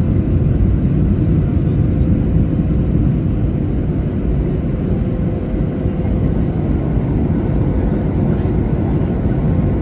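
Steady jet-engine roar heard inside the cabin of a Ryanair Boeing 737 airliner, a constant low rumble with a faint steady tone above it.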